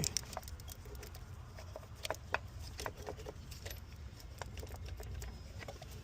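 Scattered light metallic clicks and clinks of hand tools and engine parts being handled while the thermostat housing is worked loose, over a steady low background rumble.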